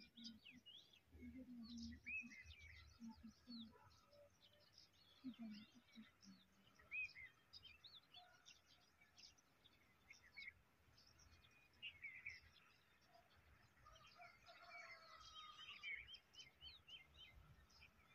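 Faint chorus of small birds chirping and calling, many short rising and falling notes, with a few brief low sounds in the first few seconds.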